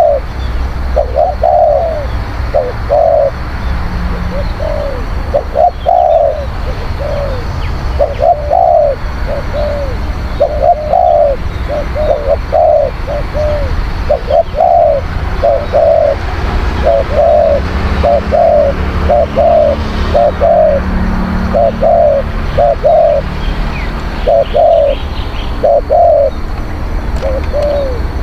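Spotted doves cooing over and over, short arched coos strung into quick phrases, over a steady low rumble.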